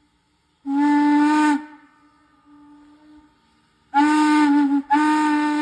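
Steam locomotive whistle of Norfolk & Western 4-8-0 No. 475 sounding three blasts of about a second each, one near the start and two close together near the end. The same tone carries on faintly between the blasts.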